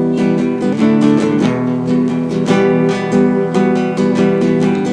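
Acoustic guitar strumming chords in an instrumental passage between sung lines of a song.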